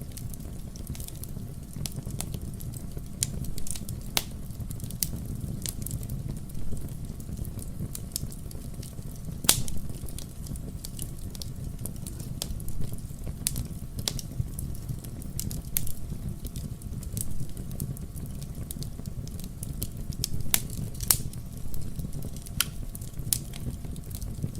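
Fire burning in a fireplace: a steady low rumble of flames with irregular sharp crackles and pops. Two louder snaps stand out, one near the middle and one late.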